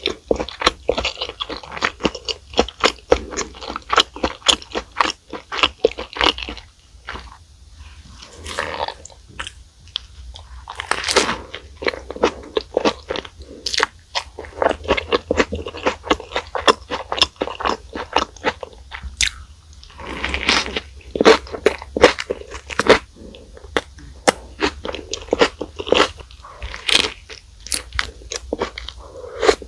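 Close-miked eating of fast food: a steady run of crunchy bites and chewing, with a couple of brief quieter pauses.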